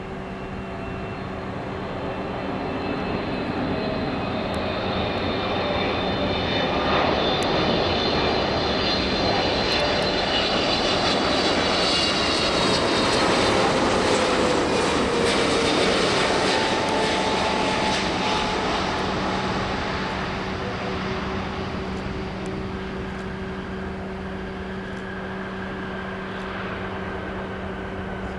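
Boeing 777-300ER jet airliner on arrival, its twin GE90 turbofans swelling as it passes by, peaking about halfway through with the engine whine sliding down in pitch, then fading away.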